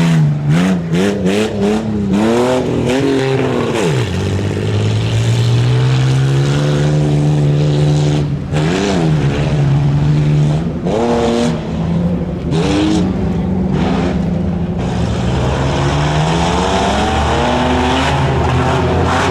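A tuff truck's engine revving hard as the throttle is worked on the course. It blips up and down quickly several times early on, pulls steadily for a few seconds, blips again a few times, and climbs in pitch near the end.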